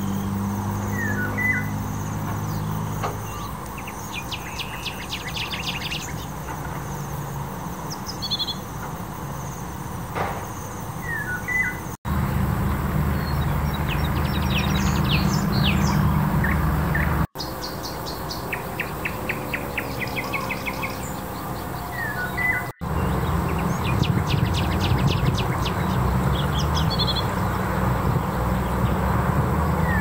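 Small songbirds chirping and giving quick, rapid trills, with a steady low rumble underneath. The sound cuts out abruptly three times, at about 12, 17 and 23 seconds, where separate recordings are spliced together.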